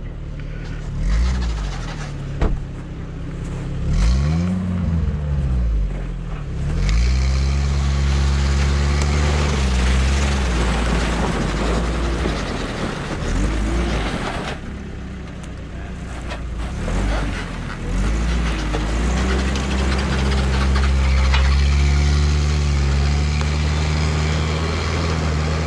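Tracked recovery truck's engine running, revving up and down several times, with a rushing noise over it for long stretches.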